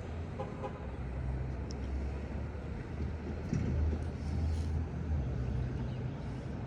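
Steady low engine rumble with a hum underneath, swelling a little a few seconds in.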